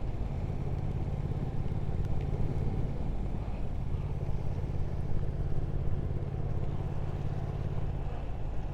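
Triumph Speed Twin 1200 parallel-twin engine running steadily at cruising speed, heard from the rider's helmet, under a steady rush of wind and road noise.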